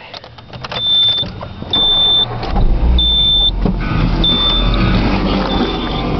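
Nissan 200SX cold-started in freezing weather. A warning chime beeps about once a second, and about two and a half seconds in the engine starts and keeps running.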